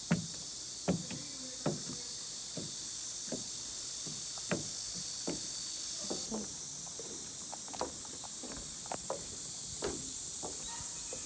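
Footsteps on a path, about one to two steps a second, over a steady high-pitched chorus of insects.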